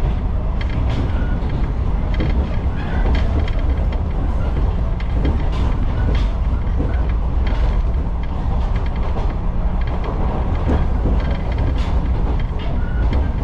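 Electric railcar running at speed, heard from inside the car: a steady low rumble with scattered clicks and rattles from the wheels and car body.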